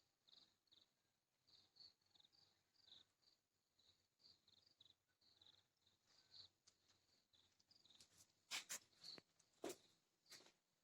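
Near silence with faint, irregular high-pitched chirps throughout, and a few sharp clicks in the last few seconds.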